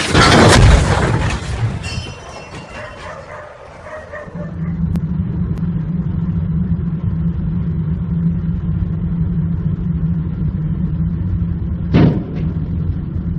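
A loud, rough burst of noise lasting about two seconds, then a heavy vehicle's engine running steadily as a low drone, with one short sharp noise near the end.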